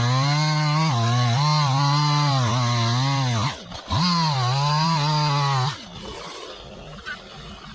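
Two-stroke chainsaw at full throttle cutting into wood, its engine note dipping and recovering under load. About three and a half seconds in the throttle is let off briefly and then opened again, and shortly before six seconds the saw drops back to idle.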